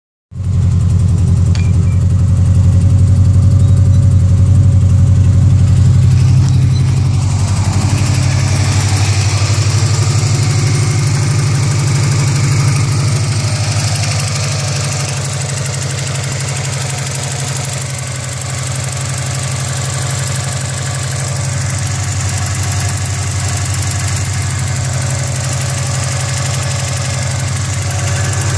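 2004 Subaru WRX's turbocharged flat-four engine idling at a steady pitch. It shows the sputter the owner wants diagnosed, which he suspects may be engine knock.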